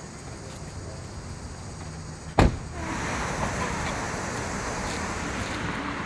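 A minivan door shutting with a single loud slam about two and a half seconds in, over steady street traffic noise. After the slam the traffic noise is louder and steady.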